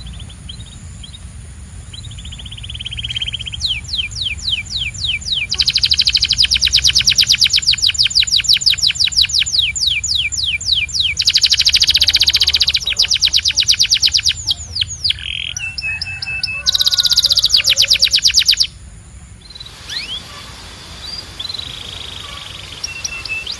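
Domestic canary singing in fast rolling trills of rapidly repeated high notes. The song builds a few seconds in and stays loud and almost continuous for over ten seconds. It breaks off abruptly, then returns softer near the end, over a faint low hum.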